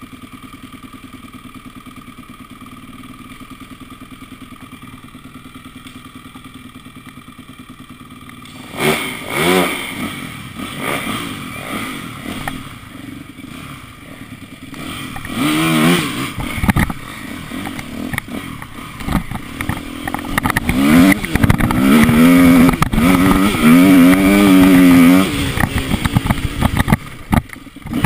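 Motocross bike engine idling steadily, then revved hard about nine seconds in, its pitch rising and falling repeatedly as the throttle is blipped, loudest near the end.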